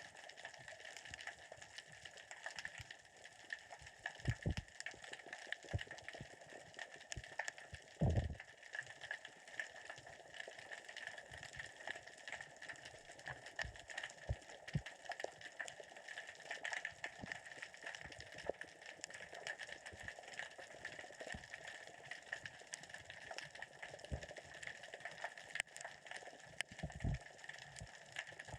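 Underwater crackle of small rocks rolling across the sea floor as the current and tide move them: a dense, continuous clicking, with a few low thumps, the loudest about eight seconds in.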